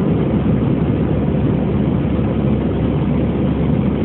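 Steady cabin noise of an Airbus A320-214 after take-off: its CFM56 turbofan engines and the rush of air past the fuselage, heard inside the cabin as an even, deep roar.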